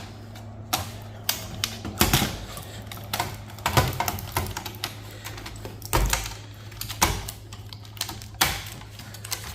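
Irregular clicks and clacks of server parts and a circuit board being handled and knocked together during a teardown, about ten sharp strikes spaced unevenly, over a steady low hum.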